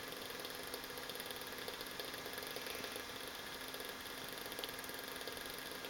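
Small electric extraction fan of a model ship's smoke generator running steadily, a faint even hum as it draws smoke from the burners up the funnel.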